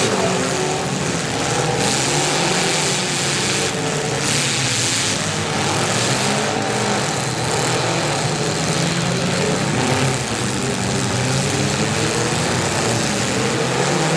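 Several compact demolition-derby cars' engines revving hard at once as the cars shove against each other, their pitches rising and falling over one another.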